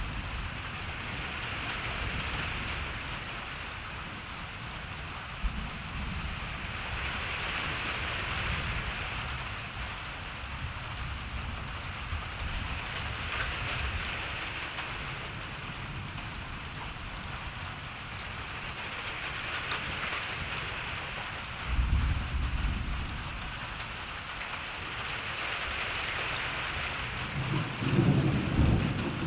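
Steady rain hissing and gently swelling, with low rumbling thunder beneath. Two louder rolls of thunder come about three quarters of the way in and again near the end.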